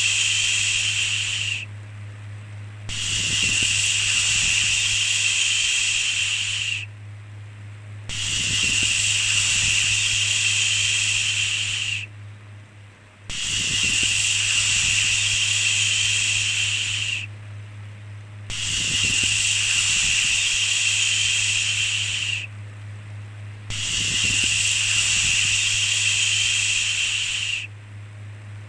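A long 'shhh' shushing hiss repeated over and over, each about four seconds long with a short pause between, over a steady low hum.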